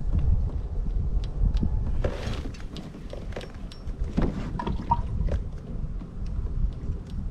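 Wind buffeting the microphone as a steady low rumble, with scattered light knocks and clicks from handling on a kayak and a brief rush of noise about two seconds in.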